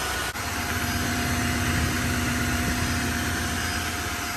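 Tineco iFloor 3 cordless wet-dry vacuum mop running with a steady motor hum and whine as it sucks dirty water up off the floor.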